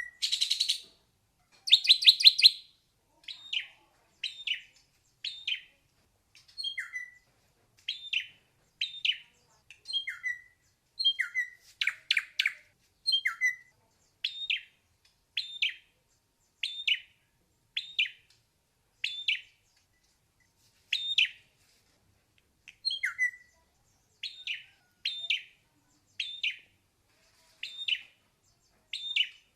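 Ashy drongo singing: a steady series of short, sharp notes, roughly one a second, with a few louder quick runs of notes near the start and about halfway through.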